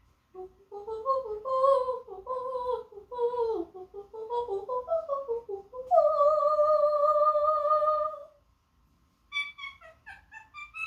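Parrot singing an opera-like melody: a run of short warbling, sliding notes, then one long held note about six seconds in, a brief pause, and quick chirpy notes near the end.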